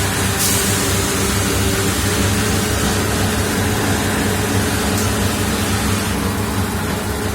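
Automatic jerrycan washing machine running steadily, with the hum of its pumps and motors under an even hiss of water spraying onto the jugs.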